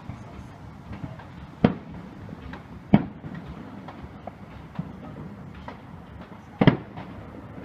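Fireworks going off: three sharp bangs, the last about 6.7 seconds in and doubled, with smaller pops and crackles between them over a steady low rumble.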